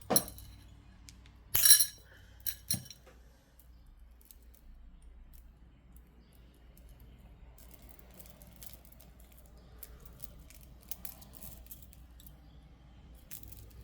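Hard jewellery pieces clinking together: a few sharp clinks in the first three seconds, the second the loudest with a brief ring, then faint small clicks later on.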